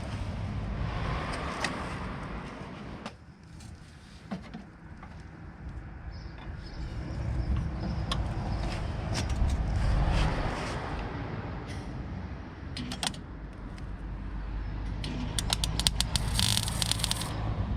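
MIG welder tack welding: a cluster of short, sharp crackling bursts near the end. Before that there is a low steady rumble with a few scattered knocks and clicks.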